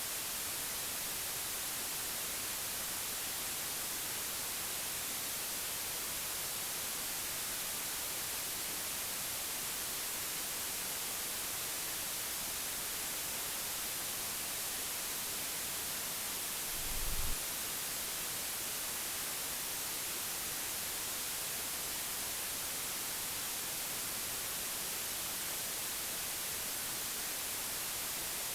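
Steady white noise, an even hiss strongest in the high frequencies. About two-thirds of the way through there is a brief low bump.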